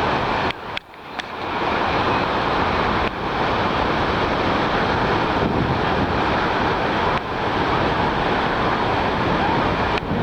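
Jet airliner engines taking off or passing, a loud steady rush of noise, with a short drop in level about a second in.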